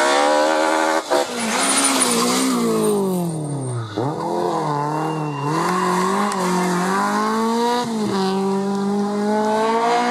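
Rally car engine under hard driving: the revs fall steadily over the first few seconds as the car slows, bottom out about four seconds in, then climb again in steps through several gear changes.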